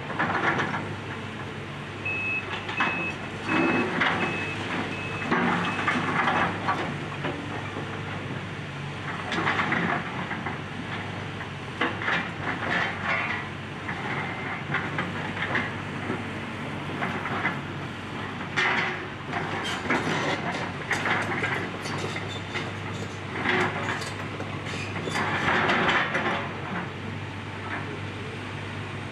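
Excavator engine running steadily while the machine breaks up a house, with bursts of crunching and clattering debris every few seconds. A backup alarm beeps in a short string a couple of seconds in.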